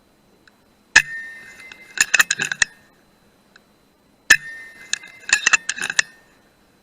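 Two shots from an FX Dreamline .177 PCP air rifle about three seconds apart, each a sharp crack with a short metallic ring. About a second after each shot comes a quick run of metallic clicks as the action is cycled to chamber the next pellet.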